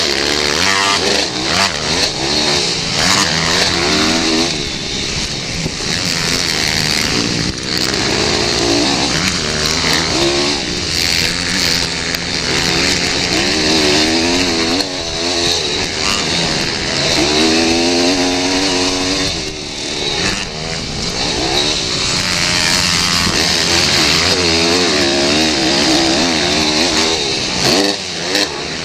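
Pit bike engines racing, their revs rising and falling over and over as the riders open and shut the throttle and shift through the gears.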